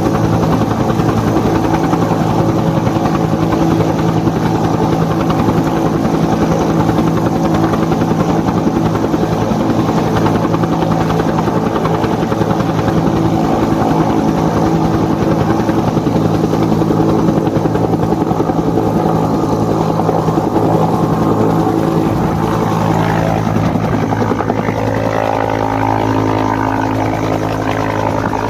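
Bell UH-1 Huey helicopter in flight, its two-bladed main rotor chopping rapidly and steadily over the hum of its turbine engine. About 23 seconds in the chop fades, leaving a steadier engine hum.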